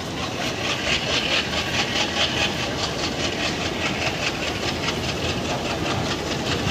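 ALCO WDM3D diesel-electric locomotive's engine running, its exhaust chugging in rapid, even pulses with a hiss riding on each beat.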